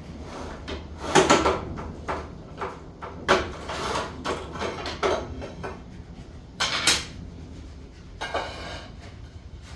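Irregular scraping and clattering of hand work on building materials: a string of short rasping strokes and knocks, the loudest about a second in and again near seven seconds, over a steady low hum.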